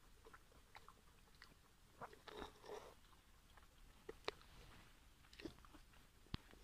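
Faint close-miked chewing of a juicy pork momo: soft wet mouth smacks and small clicks, with a couple of sharper ticks about four seconds in and near the end.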